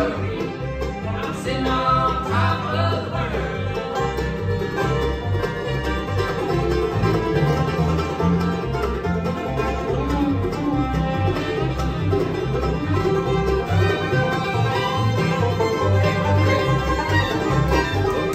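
Bluegrass band playing an instrumental stretch, with banjo and guitar picking over a steady bass pulse.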